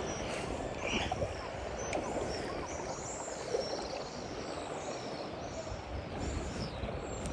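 Sea water rushing and lapping around a kayak in a steady wash, with faint high chirping calls repeating throughout, heard through a phone tucked inside a life jacket.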